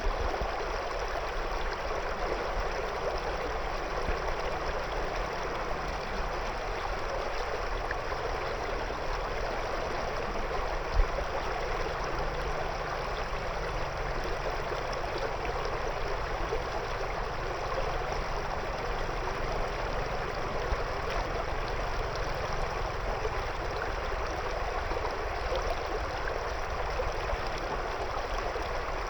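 A river's water flowing and gurgling over stones, a steady, unbroken rush, with one brief louder tick about eleven seconds in.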